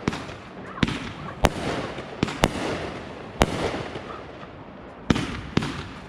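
Backyard consumer fireworks going off: about seven sharp bangs at uneven intervals, two of them close together, each followed by a brief crackling hiss.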